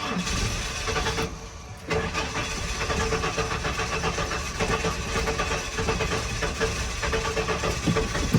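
1996 Ford F-150's inline-six engine cranking on the starter without firing, with a short break about a second and a half in before it cranks again. Crank but no start: the starter and engine turn over healthily, and the owner suspects a fuel issue.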